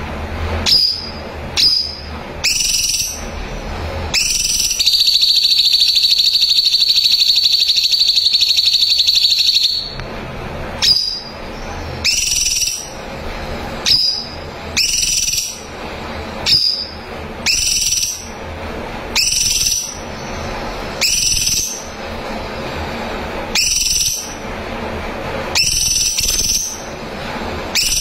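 Cucak cungkok singing in full voice: short, high whistled calls that slide upward, repeated every second or two, broken about five seconds in by one long rapid trill lasting about five seconds.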